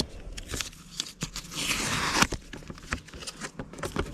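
Paper index cards being handled as habit trackers are taken off a routines card: scattered light clicks and rustles, with a longer rasping paper noise about two seconds in.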